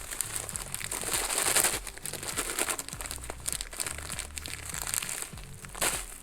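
Plastic packaging crinkling and rustling as it is handled and pulled open, in irregular bursts, over quiet background music.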